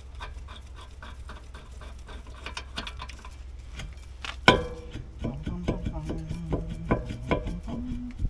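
Metal car parts being handled in brake work: small clicks and knocks, then about halfway a loud metallic clank that rings on, followed by more knocks.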